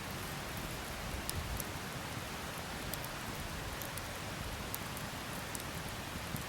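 Wood campfire burning: a steady hiss with a few scattered crackles.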